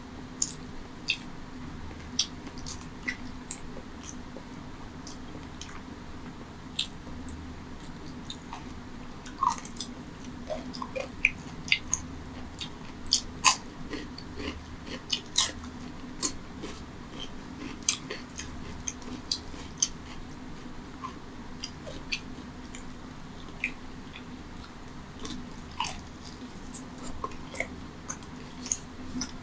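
Close-miked eating sounds: a person chewing and smacking their lips on rice and mutton curry eaten by hand, with many short wet clicks from mouth and fingers, and a crisp bite into a raw cucumber slice around the middle.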